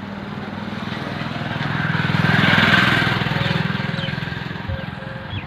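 Combine harvester engine running as the machine passes by, growing louder to a peak about halfway through and then fading.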